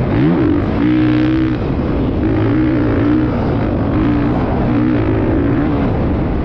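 Motocross bike engine revving up and down over and over, its pitch rising and falling, with a short steady stretch about a second in.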